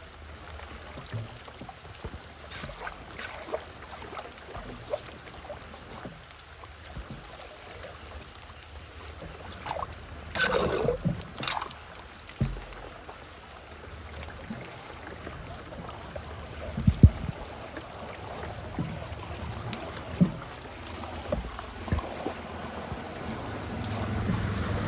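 Shallow floodwater on a street sloshing and trickling at a clogged storm drain. A louder splash comes about ten seconds in, and a few sharp knocks follow later.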